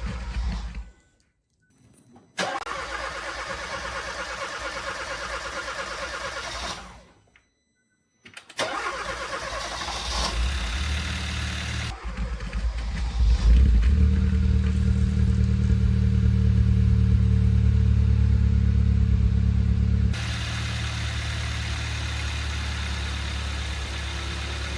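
Car engine running, most likely the Kia Soul's 1.6-litre turbo G4FJ, heard in several short edited clips separated by two brief silent gaps. About halfway through a louder, deeper steady hum sets in, then drops back to a lighter running sound near the end.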